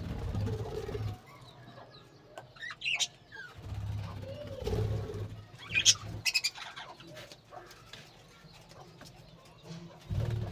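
Birds calling: a low cooing call about halfway through, with a few sharp high chirps before and after it.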